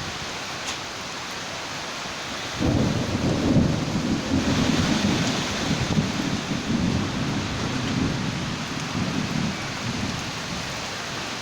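Thunderstorm: steady rain falling, and about two and a half seconds in a long rumble of thunder starts and rolls on for some seven seconds before easing off near the end.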